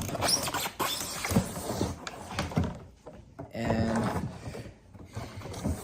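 Cardboard and plastic packaging being handled as an inner box is pulled out of a model-plane box: irregular rustling, scraping and light knocks, with a short pitched squeak or hum about two-thirds of the way in.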